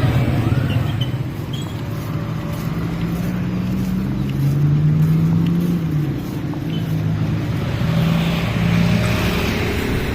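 A motor vehicle's engine running with road noise, its pitch rising and falling slowly as it changes speed.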